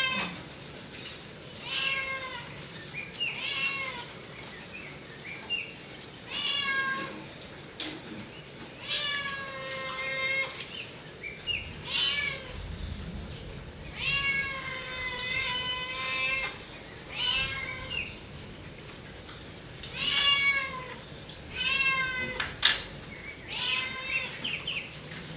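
A cat meowing over and over, a short rising-and-falling call every second or two.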